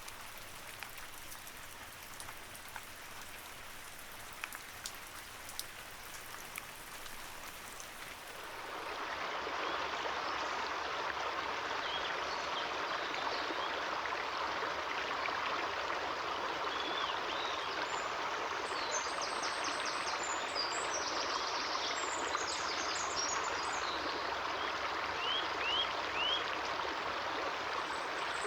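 Rain falling steadily with scattered sharp drop ticks; about nine seconds in it gives way to a louder, steady rush of a running stream. In the second half, small birds chirp briefly over the water.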